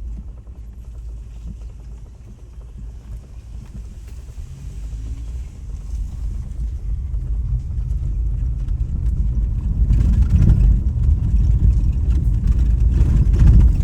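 Low road rumble and wind noise from a moving vehicle, growing steadily louder through the second half.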